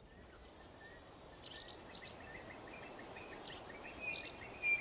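Bush ambience: a steady high-pitched insect drone with a bird calling in short repeated chirps, one louder chirp near the end.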